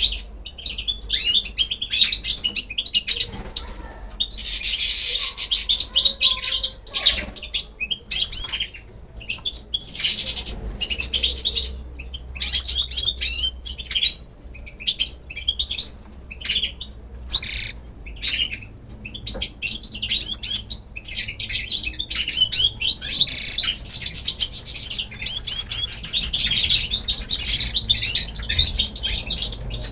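A flock of small pet birds chirping and calling continuously, many short, rapid high-pitched calls overlapping, with denser bursts of chatter around five seconds in and again near the end.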